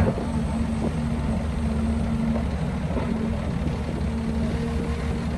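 Heavy diesel engine of earthmoving machinery running at a steady speed.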